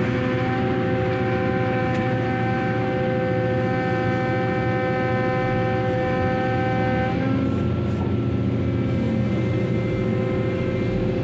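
Heavy cargo-handling machinery running steadily, a low rumble under a held multi-tone whine; the whine changes pitch about seven seconds in.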